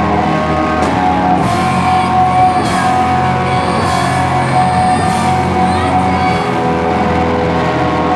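Slowcore/noise rock band playing live: loud, sustained distorted chords droning, with a crash every second or so.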